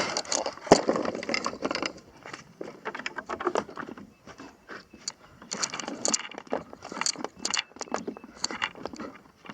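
Irregular clattering, jingling and scraping of handled gear, a dense run of small knocks and rustles.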